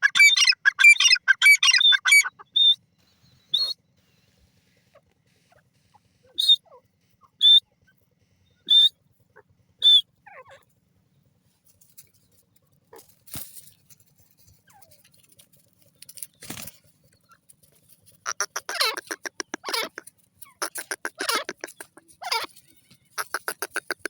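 Grey francolin calling. A rapid run of calls at the start, then four short high notes about a second apart. Near the end comes a stretch of harsh, rapidly pulsed calling.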